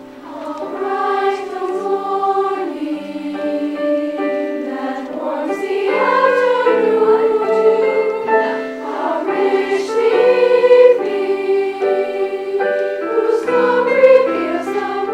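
A large student choir of about 200 voices singing in several parts, holding long notes in harmony that shift together every second or two.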